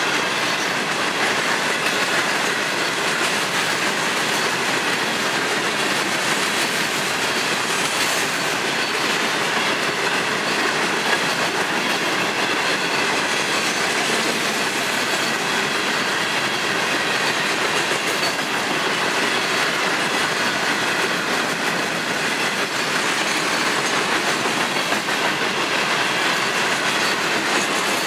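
Florida East Coast Railway freight train's open-top hopper cars rolling past close by: a steady, unbroken rattle and clatter of steel wheels on rail, with a faint high wheel squeal running through it.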